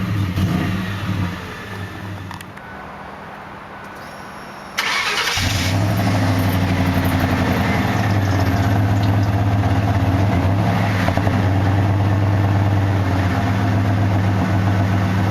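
1993 Lincoln Town Car's 4.6-litre V8 running through its dual exhaust: a brief rise in revs, then a quieter idle. About five seconds in it suddenly gets louder and holds steady from there on.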